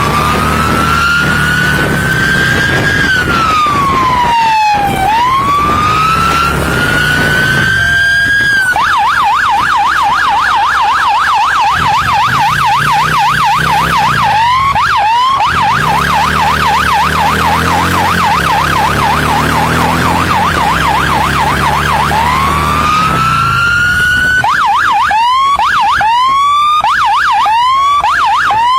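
Police siren on a pursuing police motorcycle. It gives a slow rising-and-falling wail, switches about nine seconds in to a rapid yelp for around thirteen seconds, then goes back to the wail and ends with several short rising whoops. The motorcycle's engine runs underneath it.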